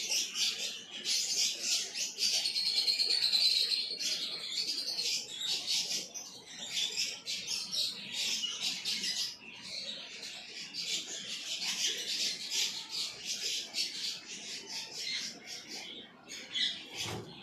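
Many small caged birds chirping at once in a dense, continuous chatter, with a warbling song standing out for a couple of seconds early on.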